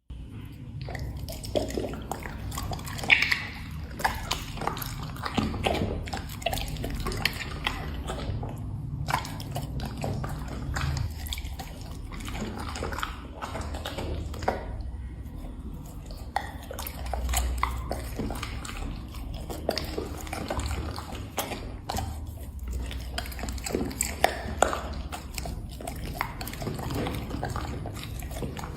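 Black Labrador chewing and smacking its lips as it eats, a run of irregular wet smacks and clicks.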